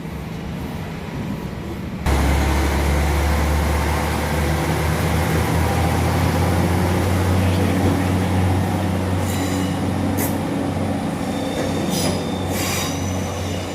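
Northern Ireland Railways diesel multiple unit running at the platform: a steady low engine hum that comes in suddenly about two seconds in, with a few short high-pitched squeals from the wheels or brakes near the end.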